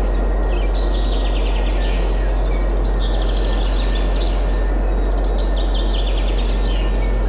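Steady wind noise with a strong low rumble, while several small birds sing quick chirping trills, one phrase after another, over the top.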